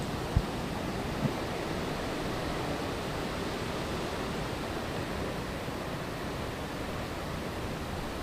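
Steady rushing noise of hurricane wind and rain, with two brief low thumps within the first second and a half.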